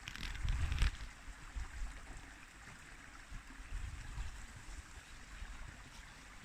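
Uneven low rumble of wind on the microphone, with a brief rustling or handling noise near the start.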